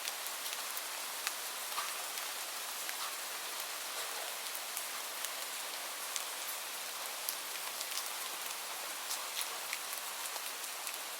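Steady rain: an even hiss of rainfall with many scattered individual drop ticks.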